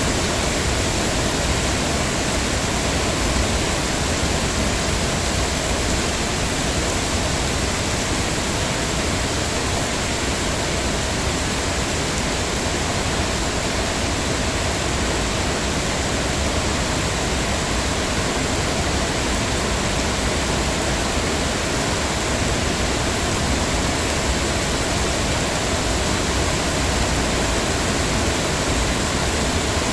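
Heavy rain falling steadily: an even, unbroken wash of noise with no single drops, thunder or other sounds standing out.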